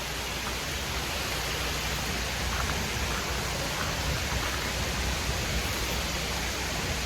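Waterfall running: a steady, even rush of falling water, with a few faint taps over it.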